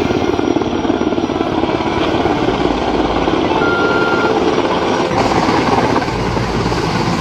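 Helicopter rotor chopping loudly and steadily, a rapid pulsing, with the sound growing brighter about five seconds in.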